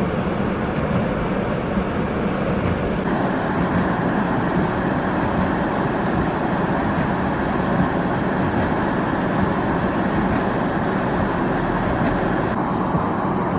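Steady rushing noise of high blizzard wind mixed with vehicle rumble. Its tone changes abruptly about three seconds in and again near the end.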